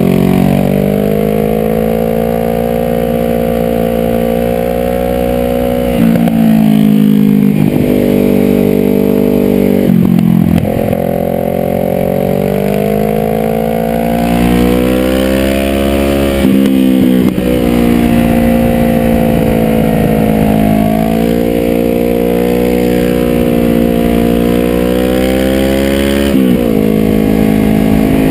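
Sport motorcycle engine heard from the rider's helmet, climbing in pitch under throttle and dropping sharply at several gear changes or throttle lifts, over steady wind noise.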